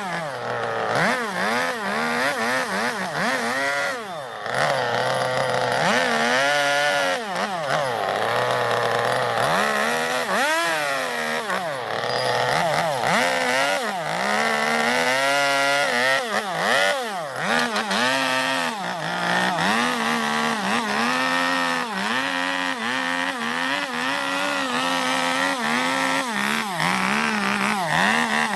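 Two-stroke chainsaw hollowing out a zelkova-wood bowl, its engine speed rising and falling again and again as the throttle is worked and the chain bites into the wood.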